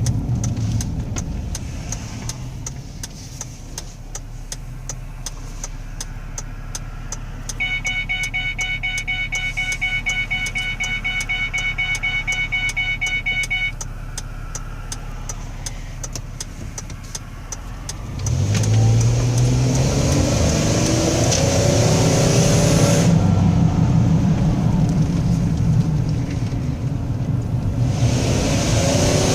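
2005 Ford Escape heard from inside the cabin: the engine and road noise run low and steady with a regular ticking, and a steady electronic tone sounds for several seconds in the middle. About 18 s in, the pedal is floored and the engine revs up loud, rising in pitch and staying loud to the end. This is a test of a transmission that skips gears and loses power under full throttle.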